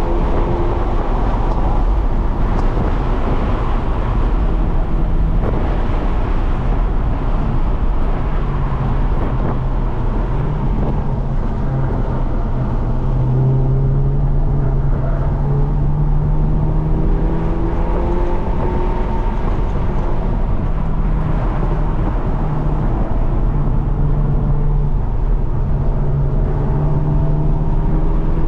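Stock 2022 Hyundai Elantra N with its 2.0-litre turbocharged four-cylinder, heard from inside the cabin at speed. The engine note climbs and drops in steps with throttle and gear changes, over a steady heavy rumble of road and wind noise.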